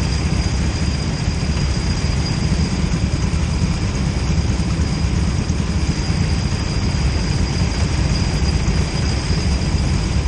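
Go-kart engine idling steadily, a constant low rumble with no revving, alongside a faint steady high whine.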